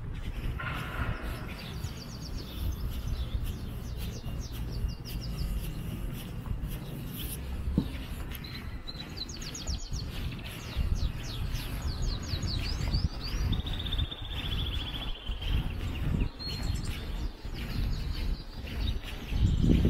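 Small songbirds chirping: runs of quick repeated high notes and a short trill, over a steady low outdoor rumble.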